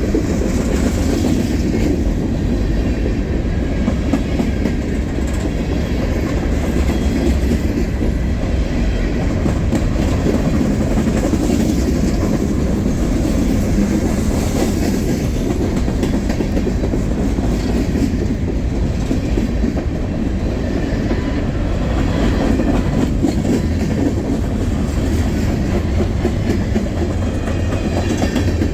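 Freight train's cars rolling past steadily, with a continuous rumble and wheel clatter on the rails.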